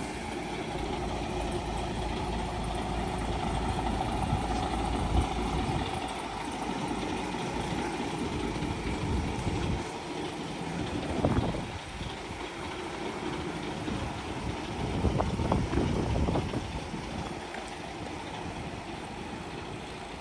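DAF XF480 tractor unit's PACCAR MX-13 six-cylinder diesel running steadily, with a few brief louder swells around the middle and later on.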